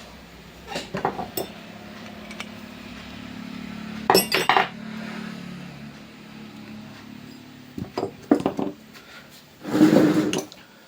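Metal parts and hand tools clinking and knocking in four short clusters of sharp clicks, the last and loudest near the end, as an angle grinder is worked on by hand.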